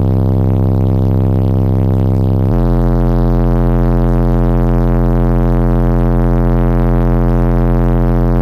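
Car audio subwoofers playing a loud, sustained bass test tone, shifting to a new note in one step about two and a half seconds in.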